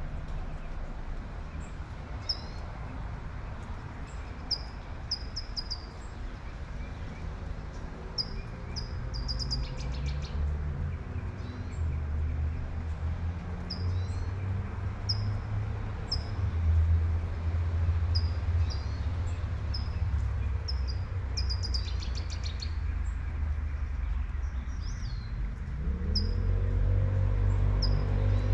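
Birds chirping in short, high, repeated notes with a few quick trills, over the steady hiss of light rain. A low traffic rumble swells in the middle and again near the end as a vehicle passes.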